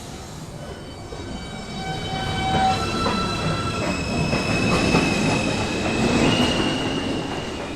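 New York City subway train running on the rails, its wheels squealing in several steady high tones over a rumbling rush that builds to a peak midway and then eases a little.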